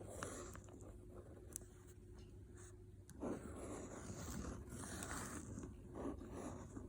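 Pen writing on paper, faint irregular scratching, with a longer, louder stretch of strokes about three seconds in.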